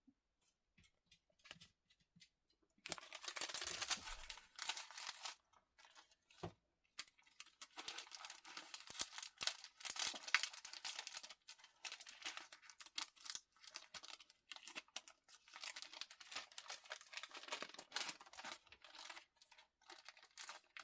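Plastic packaging crinkling and rustling as it is handled, in irregular crackling bursts with small clicks, starting about three seconds in.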